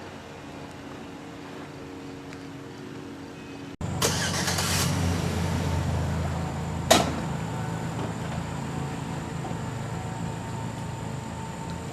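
Sea-Doo RXP-X 255 jet ski's supercharged three-cylinder engine running steadily at low speed, then abruptly much louder as it takes off. A burst of water spray follows about four seconds in, and there is a single sharp slap of water about seven seconds in.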